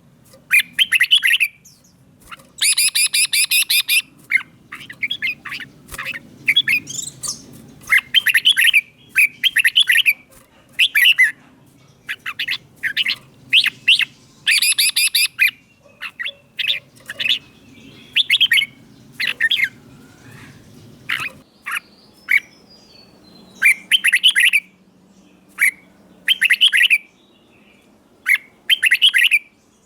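Red-whiskered bulbul singing: short, loud, chirpy phrases repeated about once a second, with brief gaps between them.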